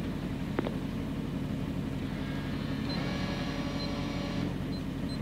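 Rally car engine idling steadily, heard inside the cabin while waiting at a special-stage start. A single light click about half a second in, and a faint high whine joins for a second or so in the middle.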